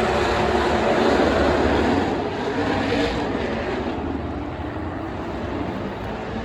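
NASCAR stock car V8 engine running loud, then fading about two to four seconds in and carrying on more quietly.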